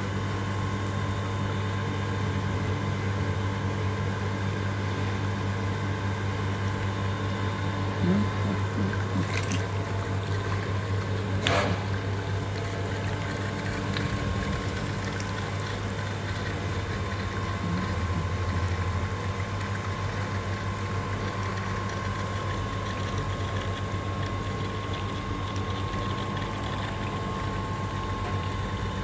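Heater-core flushing machine's pump running steadily, circulating water with cleaning chemical through a car's heater core in reverse flow, with a steady hum and water moving through the hoses. Two short clicks about nine and eleven seconds in.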